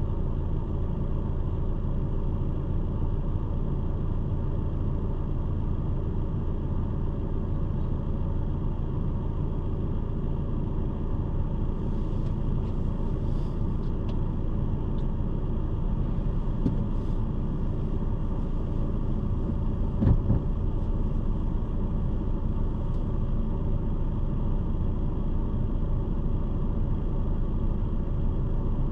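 A car's engine idling steadily while the car stands still, a low even rumble. A single short thump about twenty seconds in.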